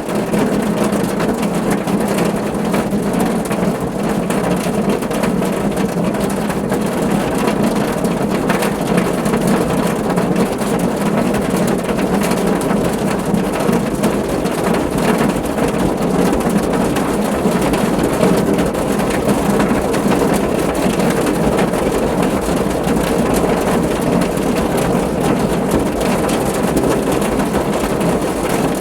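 Heavy rain falling on a car's roof: a steady, even patter of many drops, without a break.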